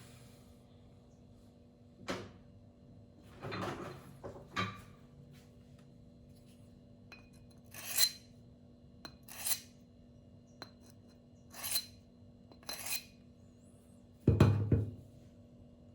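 A steel knife blade being drawn across a silicon carbide whetstone in single, separate strokes about a second or two apart, each a short gritty scrape. Near the end comes a louder, heavier scrape or knock.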